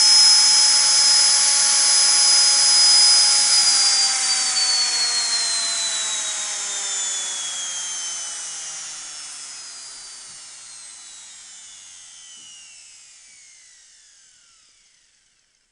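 Washing machine motor running at high speed with a high whine, then winding down: from about three and a half seconds in its pitch falls steadily and the sound fades away until it stops near the end.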